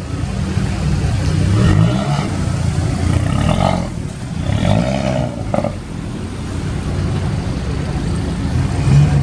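Car engine idling and revved twice, the pitch rising and falling each time.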